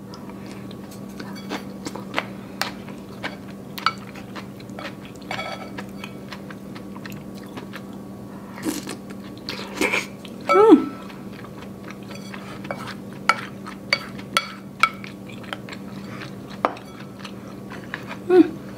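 Close-miked eating of Korean rice cake soup (tteokguk) with a spoon: chewing and many small sharp mouth clicks. Two brief murmurs of the voice come through, the louder about halfway through and a smaller one near the end.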